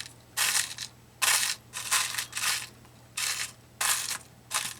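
Small metal brads rattling and clinking in a container as they are sifted through, in about seven short rattles with brief pauses between them.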